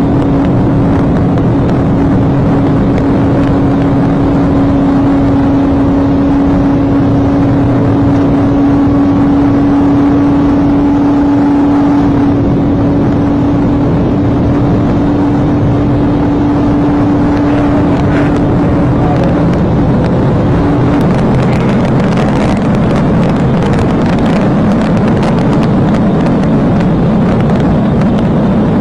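Police car driving at speed in a pursuit: continuous engine and road noise with a steady drone that drops away about 20 seconds in.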